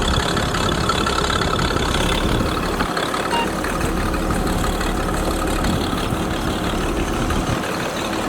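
Oliver farm tractor engine running steadily at a constant speed.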